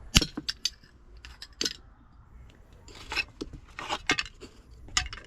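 Broken pieces of the old dash falling out and rattling, a quick run of sharp clicks and scrapes with the loudest about a fifth of a second in.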